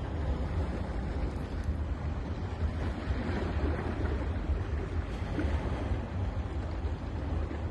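Sea waves washing on a beach in a steady rush of surf, with a low rumble of wind buffeting the microphone.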